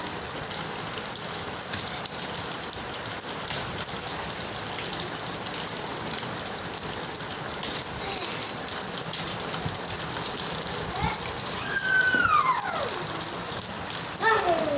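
Steady rain falling and pattering on surfaces, with many small drop impacts. About twelve seconds in, a single high cry falls in pitch, and another voice starts right at the end.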